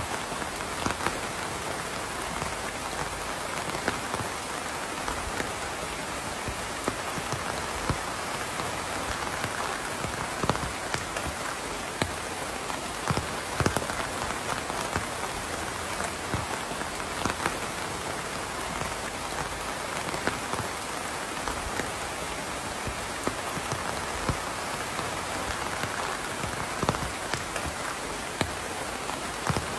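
Steady rain falling on a surface, an even hiss with many distinct drop taps and occasional louder single drips.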